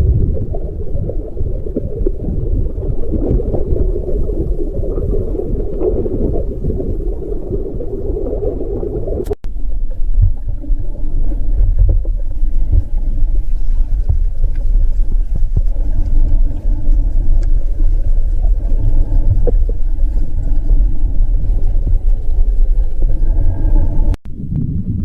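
A loud, steady low rumble with a faint engine-like hum over it after the first break; it cuts off abruptly about nine seconds in and again near the end.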